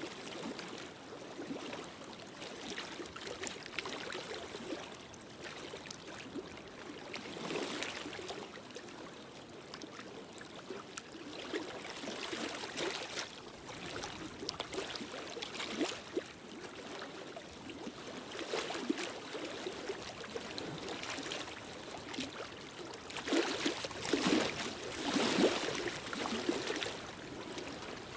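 Wood fire crackling in a fireplace: a steady hiss dotted with small sharp pops, swelling louder near the end.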